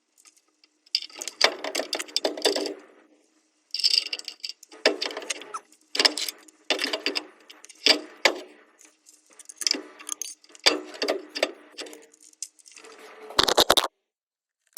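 Metal tools and parts clinking and rattling in irregular bursts of clicks, about a second or two each, with short silent gaps between them.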